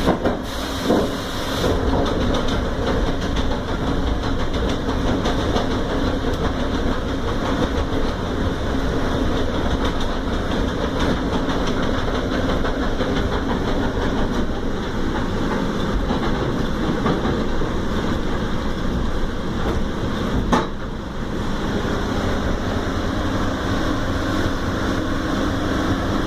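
Sawmill chop saw running with steady mechanical noise, with sharp knocks near the start and again about twenty seconds in.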